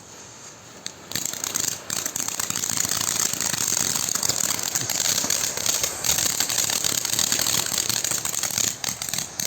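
Angled firework fountain catching about a second in, then spraying sparks with a steady hiss and dense crackling.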